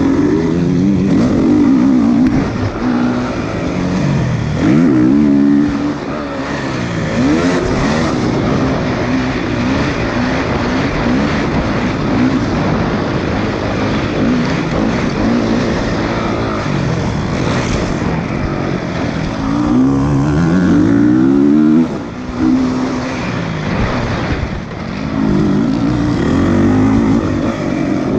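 Motocross bike engines revving, the pitch climbing and dropping again over and over, with loud engine noise throughout.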